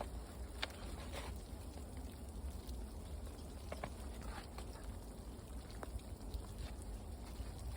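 Scattered faint taps and clicks at irregular intervals over a steady low outdoor rumble.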